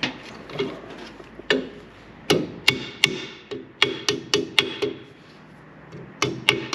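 Hammer striking metal in a series of sharp, ringing blows. They are spaced unevenly at first, pause briefly about five seconds in, then come faster, about four a second, near the end.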